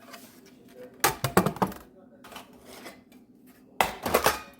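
Kitchen dishes and utensils clattering: two quick bursts of clinks and knocks, about a second in and again near the end.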